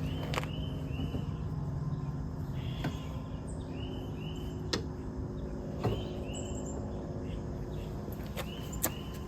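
Outdoor ambience of short chirps, mostly in pairs, repeating every second or so from a small creature. A low hum fades out after about two seconds, and a few light knocks fall between the chirps.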